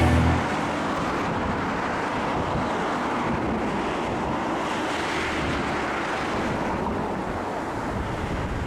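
Strong wind blowing on the microphone over rough, choppy lake water: a steady rushing noise without any tone.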